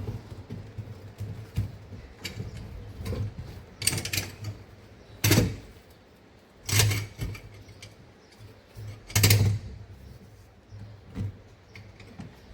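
Irregular knocks and short scrapes, as of tools or building materials being handled. The three loudest come in the middle, a second or two apart.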